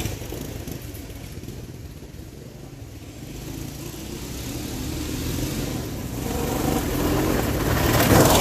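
Small engine of an off-road mini bike or three-wheeler running around a dirt course. It fades to its quietest about two to three seconds in, then grows steadily louder as it comes closer, revving up near the end.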